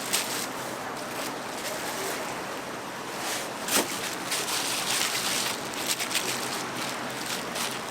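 Hot oil sizzling steadily as twisted doughnuts fry, with a few short clicks and pops, a sharp one near the middle.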